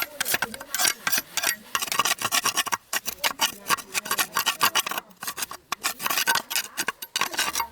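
Quick, uneven rasping strokes of hand filing, scraping or sanding on a part of an old diesel engine being restored.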